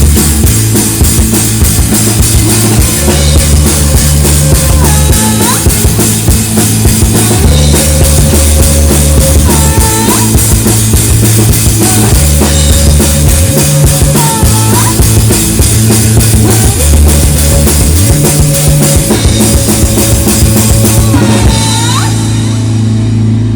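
Live rock band playing an instrumental passage: drum kit keeping a steady beat under a bass line and guitar. The music stops about a second before the end, leaving a low hum.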